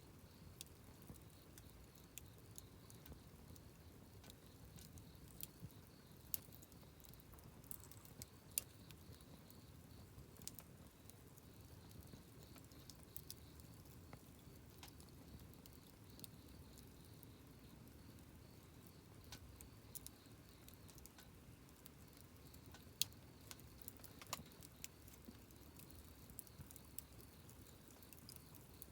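Wood campfire burning: irregular sharp crackles and pops over a soft, steady low rush of the flames.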